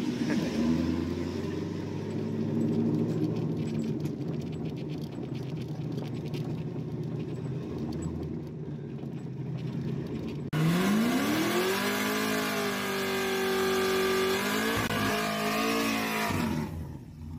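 Car engine and road noise heard from inside the cabin on a gravel road: a low, steady drone. About ten seconds in, it cuts to a Cadillac CTS-V wagon's supercharged V8 revving up sharply and held at high revs in a burnout, rear tyres spinning and smoking, until it drops off near the end.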